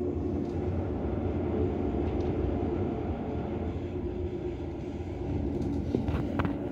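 Swiss Federal Railways passenger train running at speed, heard from inside the carriage: a steady rumble of wheels on rails with a low hum. A few sharp clicks come about six seconds in.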